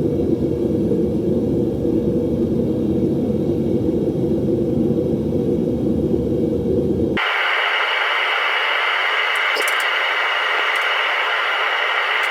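A loud steady rumbling noise that switches abruptly about seven seconds in to a higher hiss, with a few faint clicks near the end.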